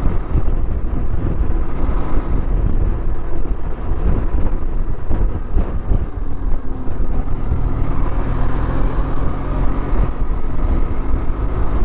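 Benelli TRK 502's parallel-twin engine running steadily under way, with its pitch shifting a little about eight seconds in.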